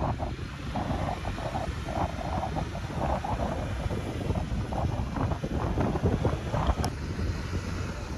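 Wind gusting over the microphone, with a steady low rumble underneath and a sharp click near the end.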